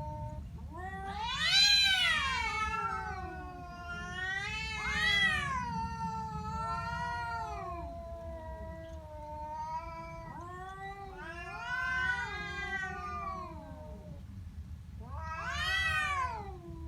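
An angry domestic cat's threat yowl: one drawn-out, wavering 'wauuu' that keeps going, swelling and rising in pitch about four times before falling back. The loudest swell comes about two seconds in.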